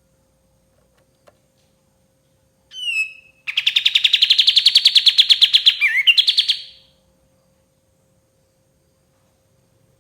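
Kapas tembak songbird calling: a short note that slides down, then a fast rattling trill of about ten notes a second lasting some three seconds before it stops.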